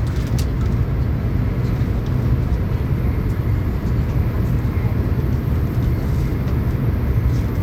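Shinkansen train running at speed, heard from inside the passenger cabin: a steady low rumble of wheels on rail and rushing air, with a few faint ticks.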